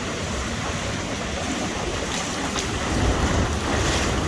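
Hurricane wind blowing hard and buffeting the microphone. The low rumble grows louder about three seconds in.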